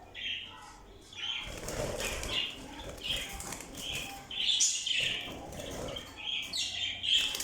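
Caged canaries fluttering their wings and chirping, short calls coming about every half second.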